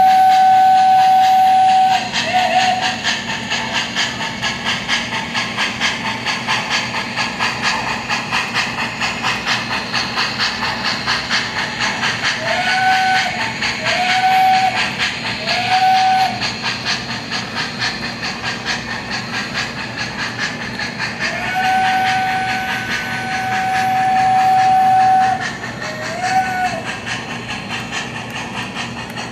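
MTH Premier PRR A5 O-gauge model steam locomotive's onboard Proto-Sound 2 sound system playing steady steam chuffing with whistle blasts: a long whistle that cuts off about two seconds in, three short toots in the middle, then a long two-part blast and one last short toot near the end.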